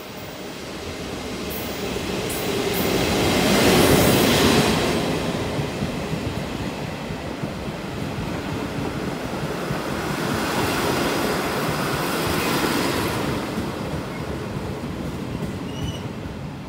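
Chu-Kuang express passenger train rolling into a station, its wheels and carriages passing close by. The rumble swells to its loudest about four seconds in and rises again a little past the middle.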